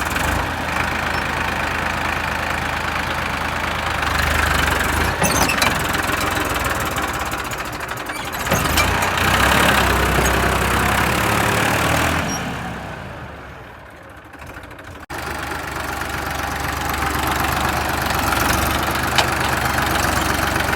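Massey Ferguson 1035 tractor's three-cylinder diesel engine labouring while the tractor is stuck in mud. The engine note swells louder twice, fades away, then cuts off sharply and comes back running steadily.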